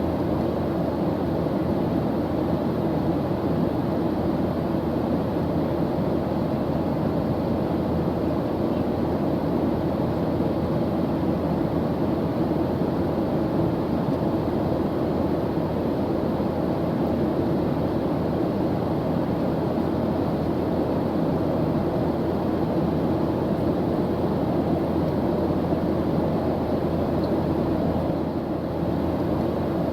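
Airplane engine drone in flight: a steady, unchanging low rumbling noise, heaviest in the low and lower-middle range.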